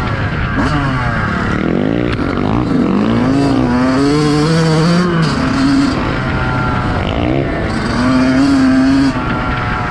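Motocross dirt bike engine revving hard through the gears, its pitch climbing and dropping again and again as the rider accelerates and shifts.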